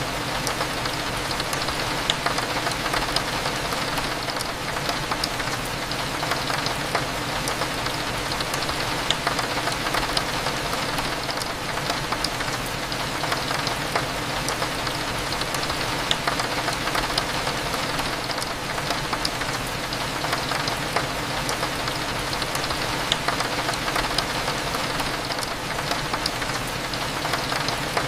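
Steady rain with many small drop ticks, over a low steady hum. A few brief high pings stand out here and there.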